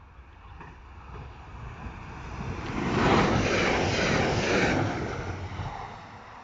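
A red electric multiple-unit passenger train passing close by: the rumble and rush of the train swell to a peak about three seconds in, hold for a couple of seconds, then fade as it goes away.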